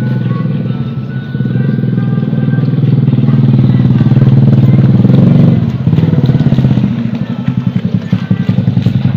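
Yamaha F1ZR's two-stroke single-cylinder engine being revved during a tune-up. It picks up about a second in and holds high for a few seconds, drops back around the middle, then is blipped in quick short revs near the end.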